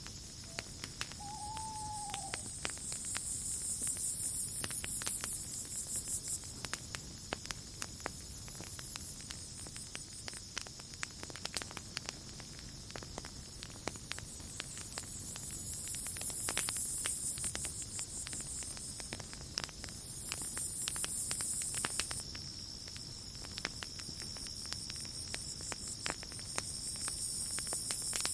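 Campfire crackling with scattered sharp pops, over a steady high insect drone and crickets chirring in swells every few seconds.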